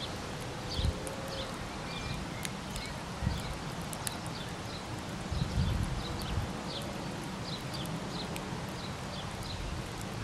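Outdoor ambience: an uneven low rumble of wind on the microphone, over which a small bird gives short high chirps, about two a second.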